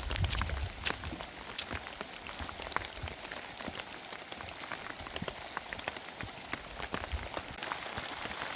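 Rain falling steadily, with many separate drops striking close by as sharp ticks. A brief low rumble comes in the first second.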